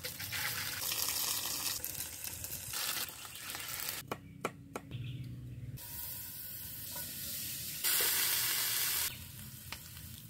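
Food frying in hot oil in a metal pan, first burger patties and then mushrooms, with a metal spatula scraping and tapping in the pan. The sizzle cuts in and out abruptly several times and is loudest for about a second late on.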